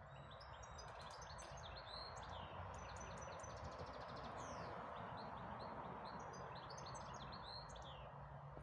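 Faint songbirds chirping and singing, with several short calls and a quick trill about three seconds in, over a steady outdoor background hush.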